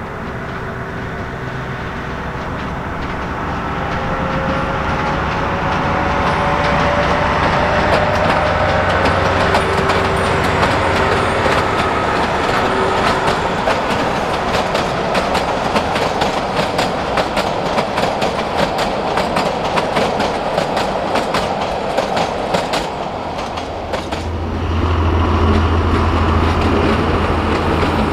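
Narrow-gauge passenger train running past, its wheels clicking over the rail joints, with a faint whine that slowly rises in pitch. Near the end a diesel locomotive's engine comes in louder and deeper as the locomotive passes close by.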